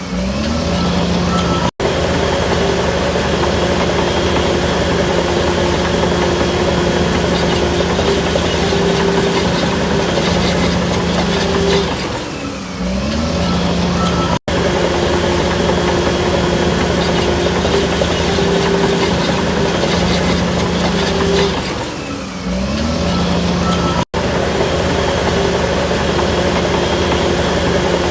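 Heavy diesel engine of earthmoving machinery running steadily under load; twice the engine note drops and then climbs back up. The sound cuts out for an instant three times.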